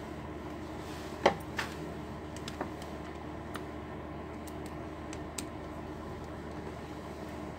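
A few sharp clicks and light ticks from parts and tools being handled on a workbench: one louder click about a second in, a second one just after, then scattered small ticks over a steady background hum.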